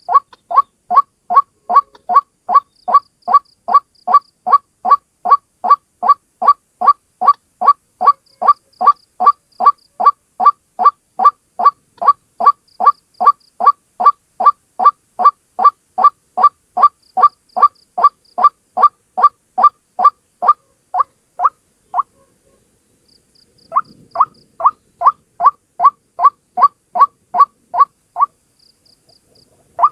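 White-breasted waterhen (ruak-ruak) calling, one bird repeating a short, loud note about twice a second in a long even series. The series breaks off for a second or two about two-thirds of the way through, resumes, and pauses again near the end.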